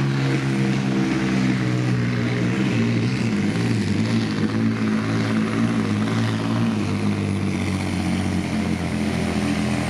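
A competition pulling truck's engine running hard and loud. Its pitch holds steady at first, wavers for a few seconds in the middle, then settles again.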